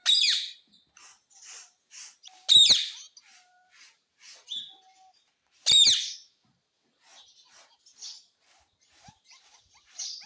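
Pet ring-necked parrot giving three loud, shrill calls about three seconds apart, with soft chirps and clicks in between.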